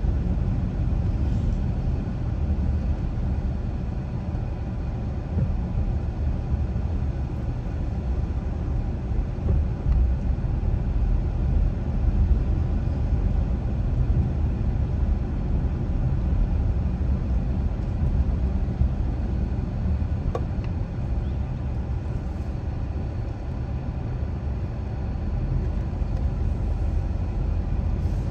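Steady low road and engine noise of a car driving at low speed on a residential street, heard from the car.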